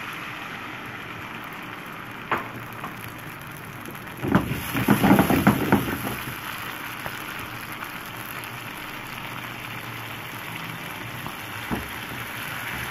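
Grated tomatoes frying in hot oil in a nonstick pan, a steady sizzle like rain. A short knock a couple of seconds in, a louder burst of clattering about four seconds in, and another light knock near the end, from handling the pan and spatula.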